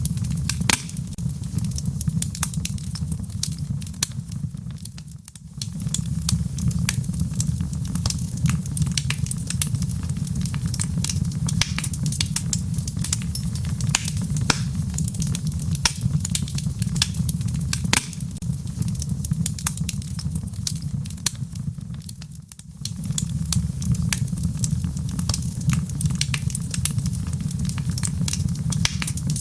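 Wood fire burning in a fireplace: a steady low rumble of flames with a constant scatter of sharp crackles and pops. The sound dips briefly twice.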